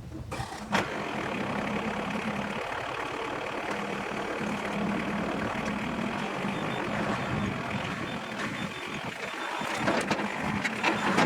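Gas chainsaw engine running steadily at high throttle; it comes up to speed about a second in and holds an even pitch.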